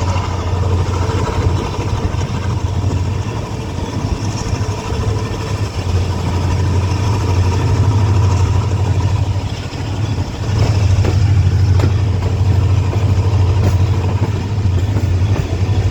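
ZCU-30 diesel-electric locomotive running steadily under way, heard from the first coach behind it as a loud, steady low drone. A few faint clicks come about eleven seconds in.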